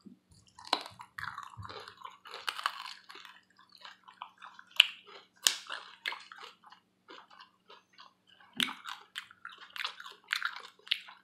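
Close-up chewing and lip-smacking as chicken wings coated in hot sauce are eaten, with irregular wet clicks and smacks.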